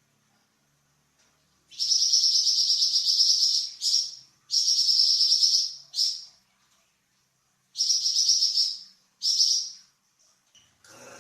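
Flamboyan songbird singing in five loud, high, buzzy chattering phrases, the longest about two seconds, with short pauses between: the long 'nyecret' chatter prized as training song for other cagebirds.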